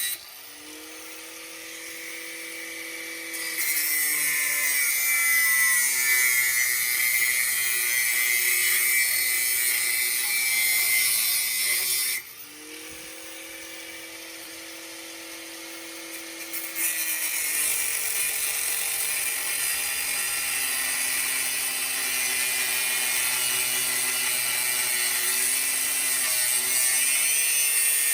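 Angle grinder cutting through a steel exhaust pipe. Twice the motor whines on its own and then bites into the metal, and the sound turns to a loud, steady hiss of grinding. The sound breaks off suddenly about twelve seconds in.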